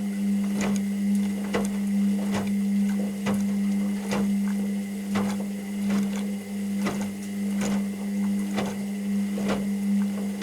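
Washing machine running: a steady motor hum with a regular click or knock about once a second as the drum turns.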